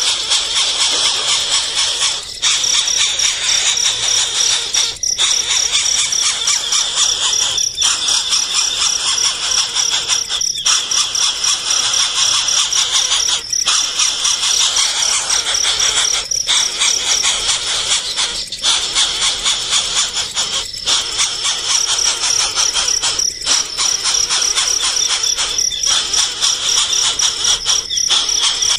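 Continuous shrill, high-pitched chirping of baby birds, broken by short gaps about every two and a half seconds.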